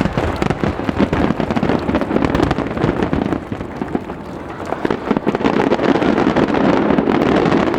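Fireworks display: a dense, rapid barrage of bangs and crackling over a continuous rumble, easing briefly about halfway through and then building again.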